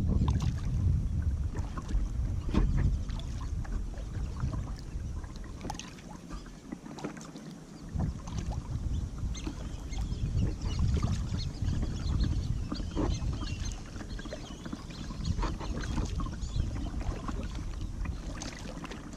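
Kayak paddling: the paddle blades dipping and dripping, making irregular small splashes and trickles over a steady low rumble, which eases briefly about six seconds in.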